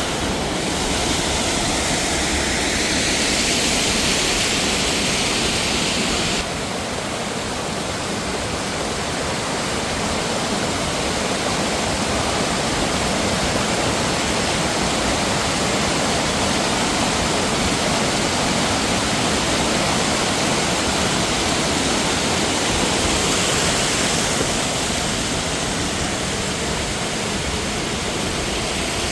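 Rushing mountain water: a loud, steady rush of falling and flowing water. Its level and tone shift abruptly about six seconds in and again near the end.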